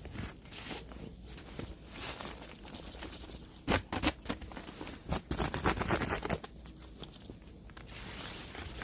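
Rustling, crinkling and clicking of camping gear being handled while a tent is pitched, in two bursts about four seconds and five to six seconds in.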